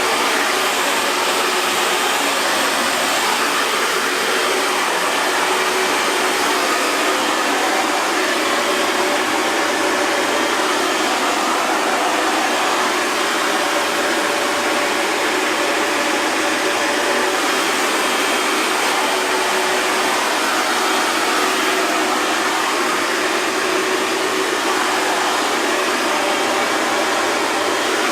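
Hair dryer blowing steadily, a constant rush of air with a faint motor hum underneath.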